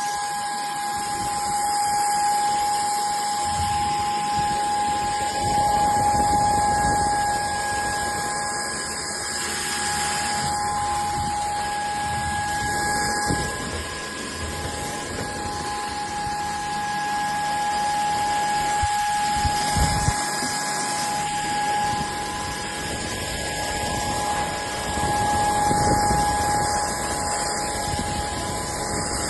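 Cordless stick vacuum cleaner running: a steady rush of air with a high motor whine, its loudness swelling and easing a little as it works.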